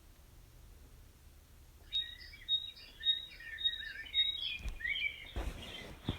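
Songbirds chirping and singing, starting about two seconds in, with quick repeated high notes among varied lower chirps. A brief low thump and a short rustle come near the end.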